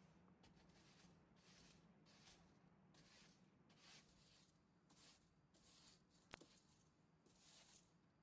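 Faint, irregular short scraping sounds, about one or two a second, with a single sharp click about six seconds in.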